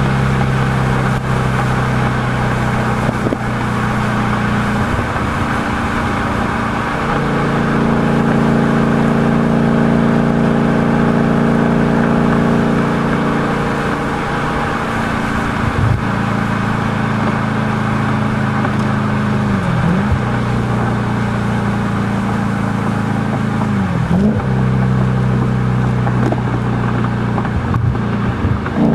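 Audi B7 S4's 4.2-litre V8 running through a Stasis exhaust with the piggy resonators retained, holding a steady note for long stretches. The note thickens about a quarter of the way in, and a few times in the second half the pitch briefly drops and comes back up.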